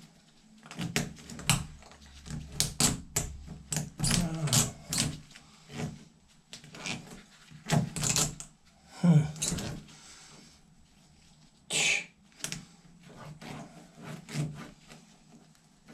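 Irregular clicks, taps and knocks of hardware and hand tools being worked by hand, with no steady motor sound.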